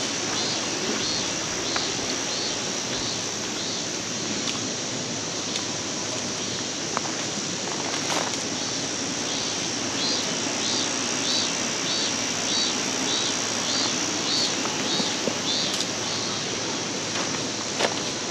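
Valley stream running with a steady rush of water, a high steady insect buzz over it and a short chirp repeating about twice a second until near the end, with a few faint clicks.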